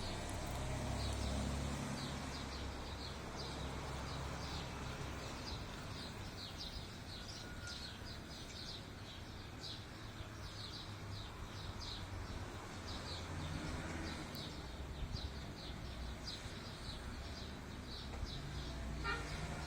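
A bird chirping over and over, several short high chirps a second, over a steady low rumble.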